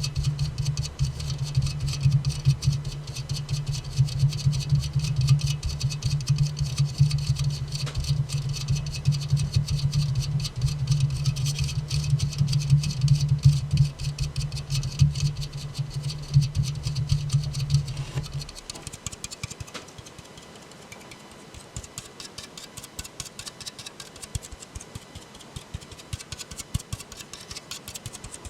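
Fast, continuous finger tapping on an aluminium soda can. A deep drumming sits under the taps until about two-thirds of the way through, when it stops and only lighter, quieter taps remain.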